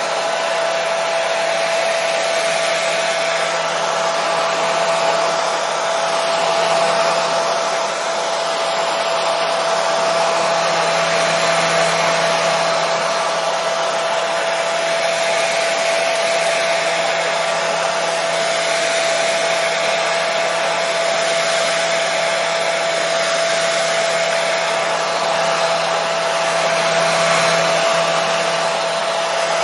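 Hair dryer running continuously at a steady setting: a constant airy rush with a steady motor whine.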